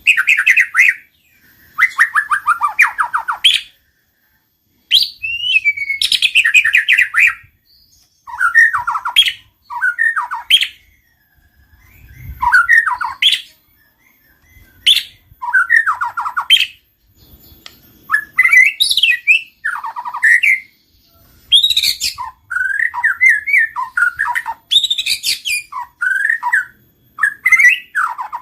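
White-rumped shama singing: a run of short, varied phrases of quick whistled notes, rapid trills and falling sweeps, each about a second or two long, repeated with brief pauses between them.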